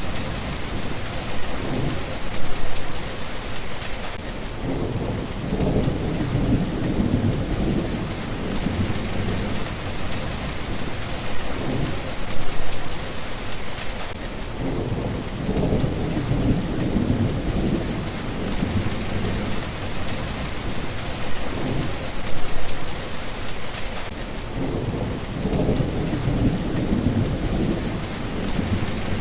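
Steady heavy rain hissing, with low rolling thunder rumbles swelling and fading three times, about ten seconds apart.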